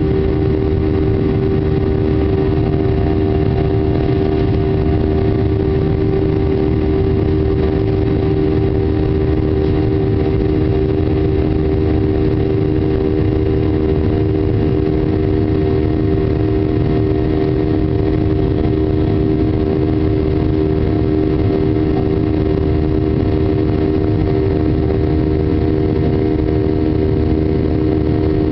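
Boeing 737-800's CFM56-7B jet engines running in a steady drone, with a few held tones over a low rumble and no change in power.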